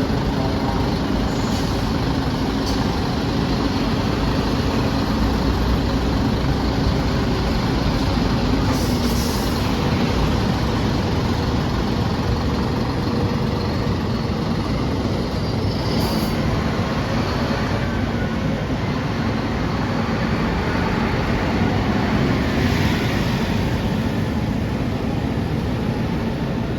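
Articulated city bus's diesel engine idling steadily after starting, with a few short high hisses.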